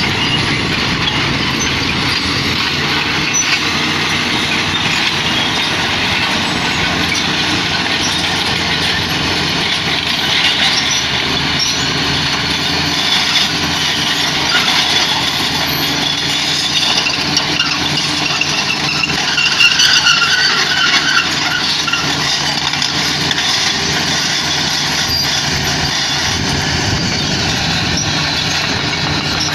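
Heavy earthmoving machinery, a bulldozer and excavator, running steadily with diesel engines under work. A brief burst of higher-pitched sound about twenty seconds in is the loudest moment.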